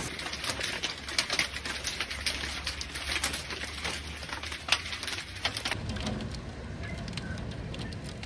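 Heavy rain falling, with many sharp drops striking a hard surface close by. About six seconds in the sharp hits thin out and a softer, steadier rain sound continues.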